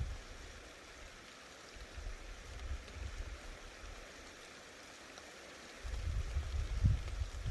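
Steady rain hiss from a thunderstorm, with a low rumbling that fades about half a second in, swells briefly in the middle, and comes back strongly about six seconds in.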